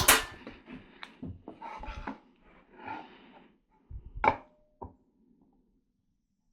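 Cedar boards and tools handled on a workbench: a sharp wooden knock at the start, some scraping and rubbing, and two more knocks about four and a half seconds in.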